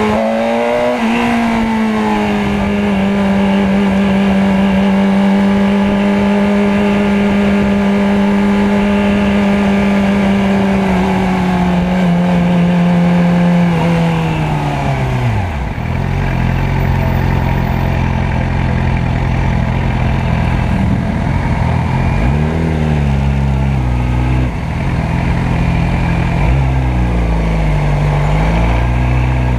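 Motorcycle engine holding a steady pitch at cruising speed, then dropping in pitch as it slows about halfway through, and running at low revs with a few brief rises and falls near the end.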